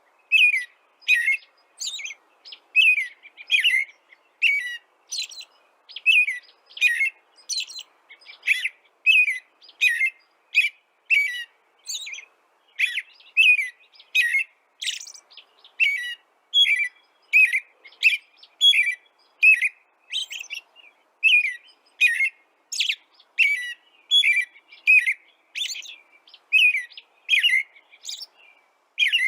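A songbird chirping over and over in short, sharp, high chirps, a little more than one a second, keeping an even pace.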